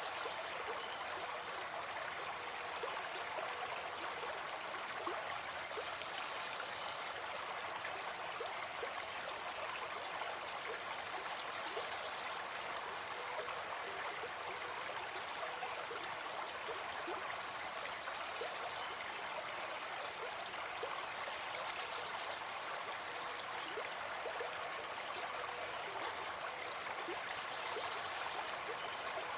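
Shallow forest stream flowing over rocks: a steady, even rush of water with small trickling splashes.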